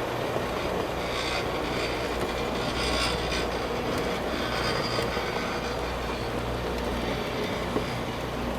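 Rail grinding machine working on the track: a steady diesel engine drone under the hiss of grinding wheels on the railhead, which swells a few times.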